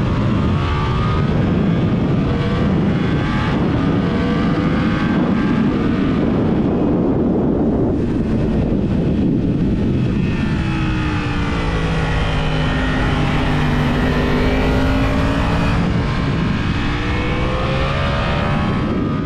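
Yamaha YZF-R1 inline-four engine through a TSR aftermarket exhaust, heard onboard under heavy wind rush. It climbs through the revs in several quick upshifts over the first few seconds, runs at lower, easing revs in the middle, then rises again near the end.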